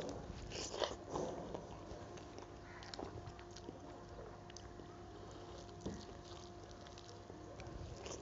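Close-miked chewing and mouth sounds of a person eating rice with chicken curry by hand: louder chewing and smacking in the first second and a half, then softer scattered clicks and smacks. A faint steady hum runs underneath.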